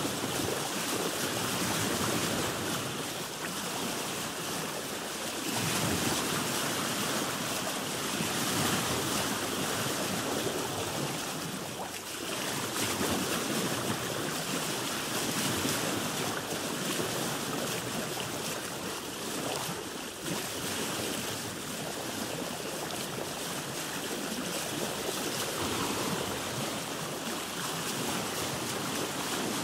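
Ocean waves heard from a boat: a steady wash of water with wind that swells and eases every few seconds.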